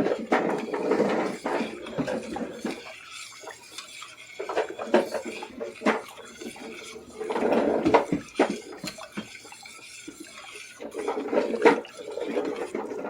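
A spoon stirring and scraping in a pot of soup broth, clinking against the pot, in three spells of clatter with quieter pauses between.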